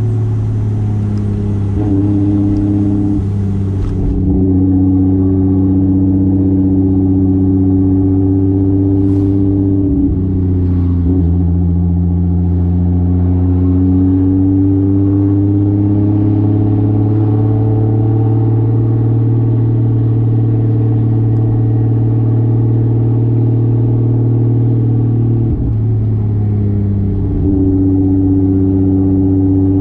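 1995 Toyota Soarer's single-turbo 2JZ straight-six running while driving, a steady drone that rises and falls slightly in pitch, with brief dips about ten seconds in and again near twenty-five seconds.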